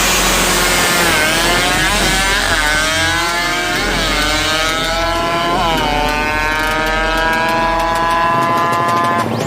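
Two-stroke motorcycle engine revving: several quick rises and falls in pitch, then one long steady climb that cuts off abruptly near the end.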